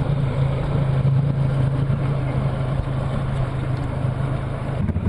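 Boat engine running steadily with an even, low hum.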